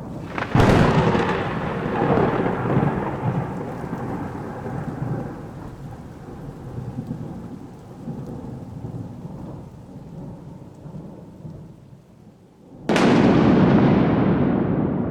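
Two claps of thunder: a sharp crack about half a second in that rumbles on and slowly fades away, then a second sudden, loud clap near the end.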